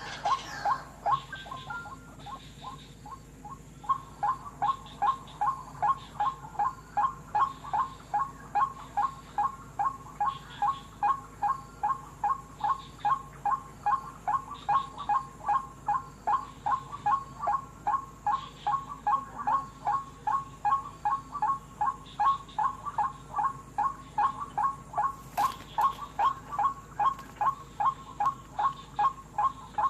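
White-breasted waterhen (wak-wak) call, a short note repeated about two to three times a second. It pauses just after the start and takes up again about four seconds in, then runs on steadily.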